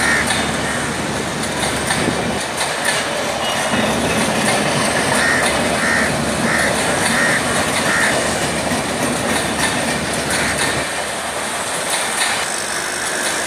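Indian Railways LHB passenger coaches rolling past, with steady wheel-on-rail noise throughout.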